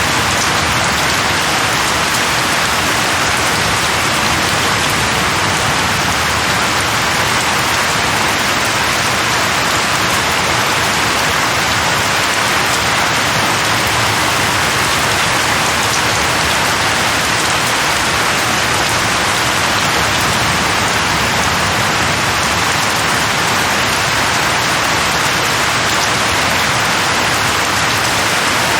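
Steady rain falling on a surface, an even dense hiss with no let-up.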